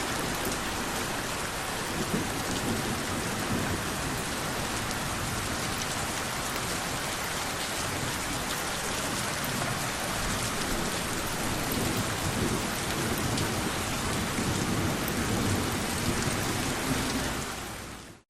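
Steady heavy rain with low thunder rumbling beneath it, the rumble swelling over the second half. The whole sound fades out quickly right at the end.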